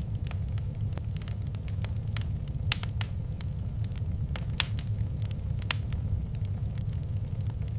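Wood fire crackling in a fireplace: irregular sharp pops and snaps over a steady low rumble of the flames, with a few louder pops, about 2.7, 4.6 and 5.7 seconds in.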